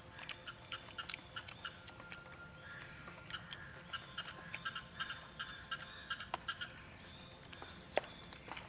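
Short, rapidly repeated bird calls, strongest in the middle, with scattered sharp clicks throughout and one louder click near the end.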